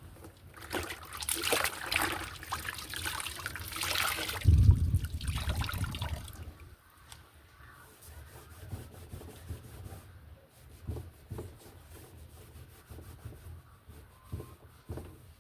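Water running and splashing for about six seconds, with a heavy low thud partway through, followed by scattered light knocks.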